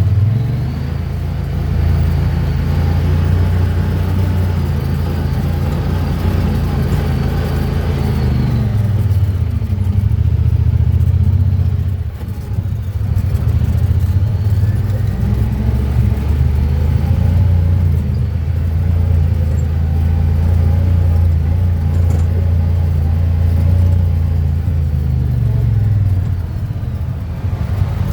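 Honda Pioneer 1000-5 side-by-side's parallel-twin engine running under changing throttle, its pitch easing off about eight seconds in, climbing again around fourteen seconds, and dropping once more near the end. Loudness dips briefly about twelve seconds in.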